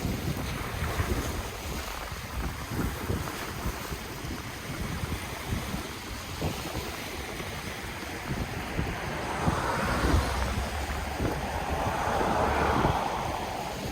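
Ocean waves washing in, with wind buffeting the microphone in gusty low rumbles. About two-thirds through, a wave surges in with a louder rush that peaks near the end.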